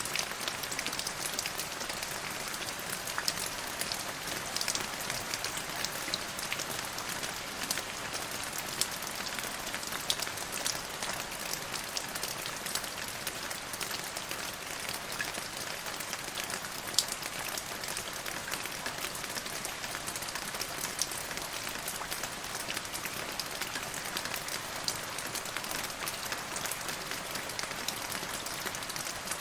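Steady rain falling, an even hiss with many sharp drips and patters of drops striking a surface.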